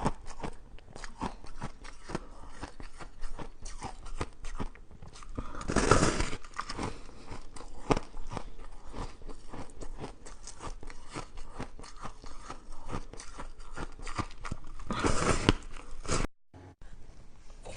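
Close-up chewing and crunching of frozen shaved ice, a dense run of small cracks and crunches. Louder bursts of crunching come about six seconds in and again about fifteen seconds in.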